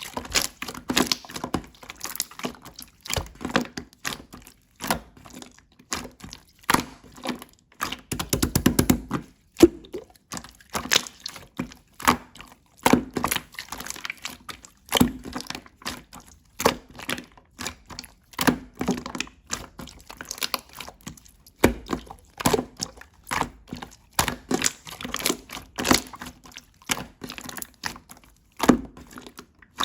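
Slime being squeezed, poked and stretched by hand, making a steady run of irregular wet clicks and pops. A rapid crackle of tiny popping comes about eight seconds in.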